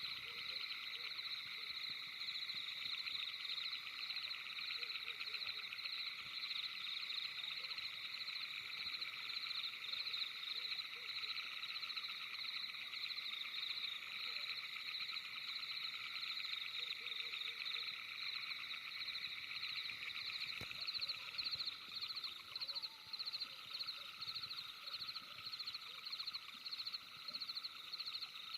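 Steady night-time chorus of calling animals, a fast continuous trill in several high pitches together; about twenty seconds in it turns into a more distinct throb of about three beats a second.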